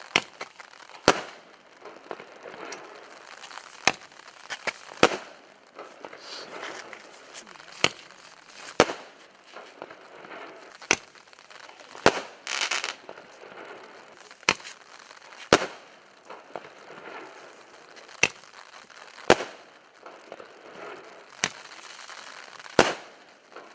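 Consumer firework battery 'Galaxy' firing: sharp bangs, mostly in pairs about a second apart, repeat every two to three seconds with crackling between them.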